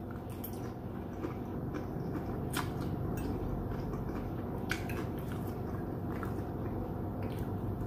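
A person chewing food close to the microphone, with a few faint clicks spread through.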